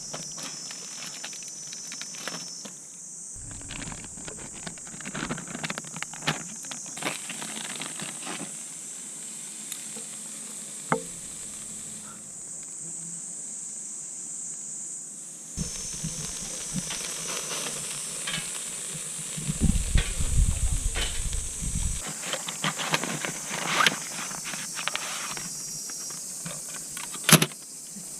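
Meat sizzling and crackling on a grill net over a fire pit, with a steady high drone of summer insects behind it.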